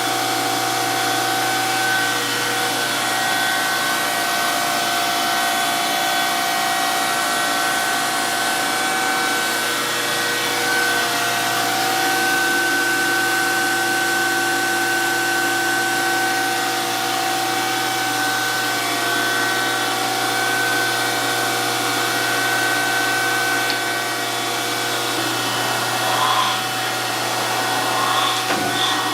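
DoAll 14-inch surface grinder running steadily, a constant machine hum holding several steady tones, with a few light ticks near the end.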